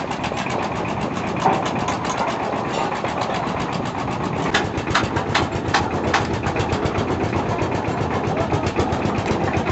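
Engine of a concrete lift machine running steadily, with a fast even pulse. A few sharp clanks come about halfway through.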